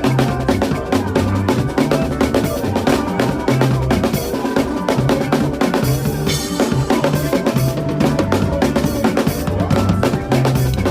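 Drum kit playing a fast makossa groove with bass drum, snare and rimshots over a bass line, in a praise music medley.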